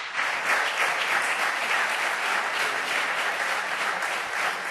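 Many people clapping steadily: applause from the benches of a parliament chamber.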